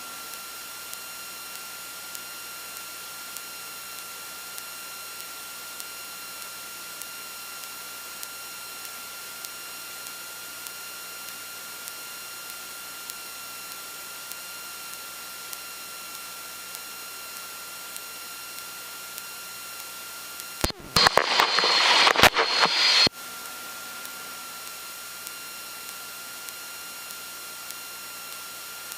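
Steady electronic hiss with faint thin whines from an aircraft headset intercom feed, with faint ticks about once a second. About 21 seconds in, a loud, choppy burst of radio noise lasts about two seconds.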